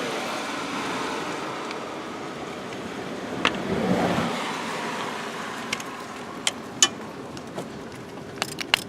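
Steady noise like passing road traffic, swelling about four seconds in, with scattered sharp clicks and clinks, several in quick succession near the end, typical of hand tools and parts being handled in an engine bay.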